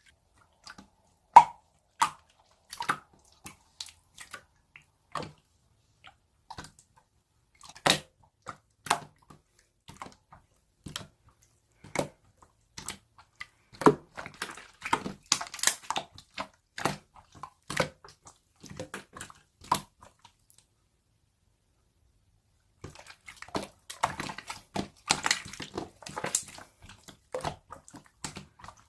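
Pearl slime being pressed and squished by hand, giving off sharp, wet clicks and pops at irregular intervals. A pause of about two seconds comes two-thirds of the way in, followed by a denser run of sticky crackling.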